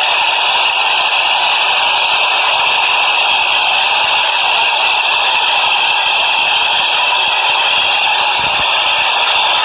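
Subway train running, a loud, steady rushing noise that holds unchanged throughout.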